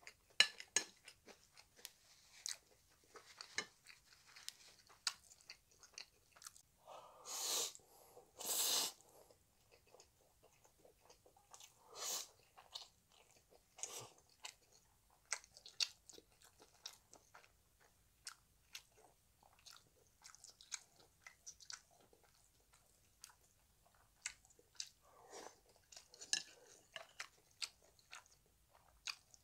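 Close-miked chewing of jjapaghetti noodles and kimchi fried rice: a steady run of small wet mouth clicks, with two louder, longer sounds about seven and nine seconds in.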